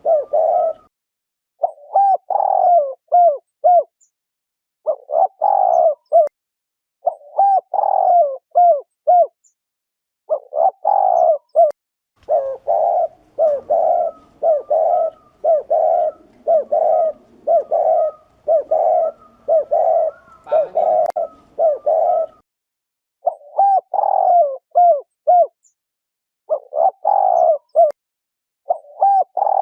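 Spotted dove giving its 'gù' bowing coo, the male's cooing call, over and over. It comes in short phrases of several quick notes separated by brief pauses, with a denser, almost continuous run in the middle.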